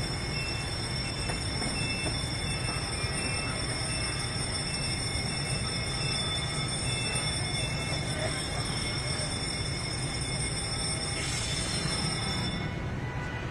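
A train running on the rails, with a steady rumble and a high-pitched wheel squeal held on several tones. The squeal cuts off about a second before the end.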